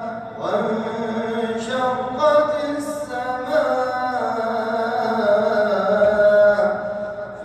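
A man reciting the Quran in a melodic, chanted style, drawing out long held notes that slide slowly in pitch, with short breaks between phrases.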